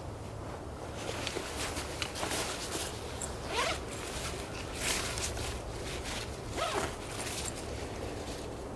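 A zipper being pulled in several short strokes, about three clear zips spread over a few seconds.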